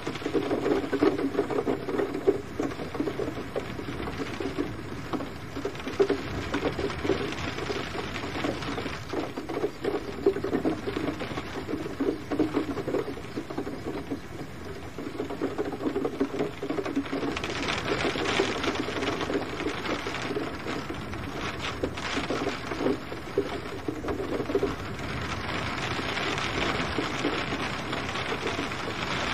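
Gentle rain falling steadily, many drops pattering on a surface, with a denser, hissier spell in the middle and again near the end.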